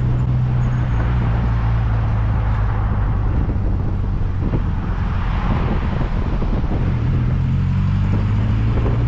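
An MG Midget's small engine running as the open-top car drives along, with road and wind noise. The engine note drops about seven seconds in, then climbs again near the end.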